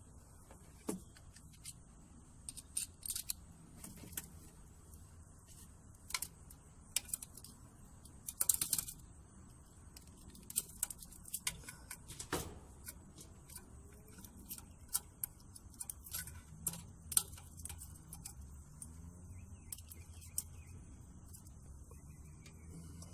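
Scattered small metal clicks and clinks of hands and tools working on a gas furnace's burner parts to take out its burnt-out igniter, with a denser run of clicks about eight seconds in.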